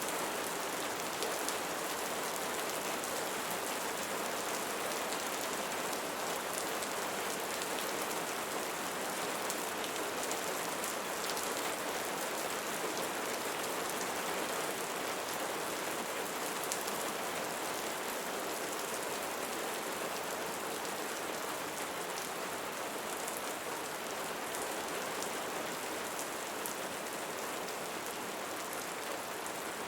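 Steady rainfall, a continuous hiss with a fine patter of individual drops throughout.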